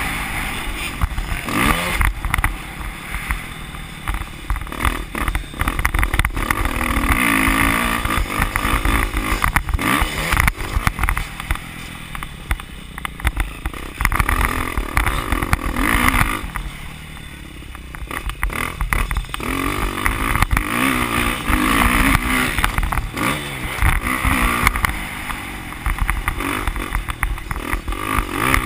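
Motocross bike engine revving up and down as it is ridden hard around a dirt track, with the throttle shut off briefly twice, about halfway through and again later, and wind buffeting the microphone.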